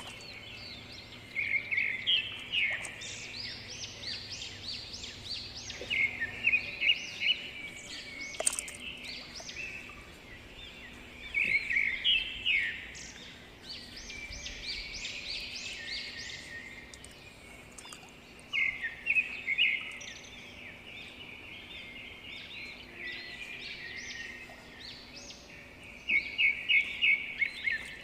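Songbird singing: short bursts of quick chirps that come back every five to seven seconds over a faint steady background.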